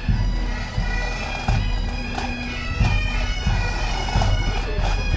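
Highland bagpipes playing a tune over their steady drone.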